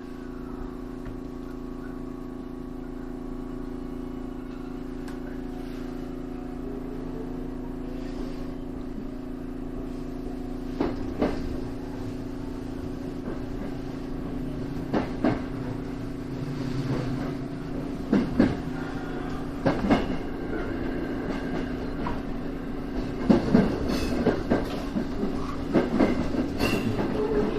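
JR West 225 series electric train, heard from the cab, pulling away: a steady electrical hum with a motor whine rising a few seconds in, then wheels clicking over rail joints, the clicks coming closer together and louder as it gathers speed.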